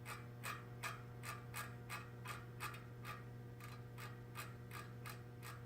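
Easton Circuit Velomax freehub's pawls ticking as the freehub body is turned slowly, about three to four clicks a second, the mechanism freshly flushed with Tri-Flow and oiled. A low steady hum runs underneath.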